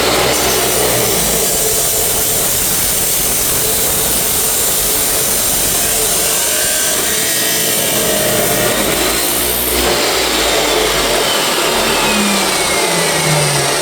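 Chop saw running and cutting through a length of exhaust pipe: a loud, steady grinding whine.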